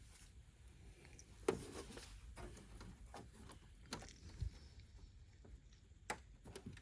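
Faint, scattered clicks and knocks of hands and parts being handled while disconnecting fittings under a car, about five light taps spread over several seconds.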